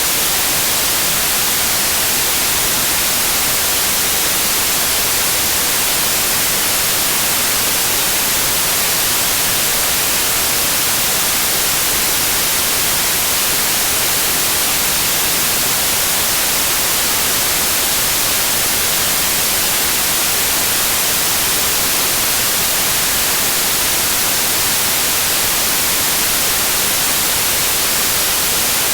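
Steady electronic white noise: an even, unchanging hiss, brightest in the treble.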